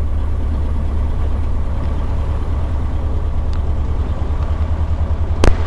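Jodel DR1050's piston engine running steadily on a ground run, a deep low rumble, being run to clear a spark plug the owner suspects was fouled while it ran with low compression. A single sharp click about five and a half seconds in.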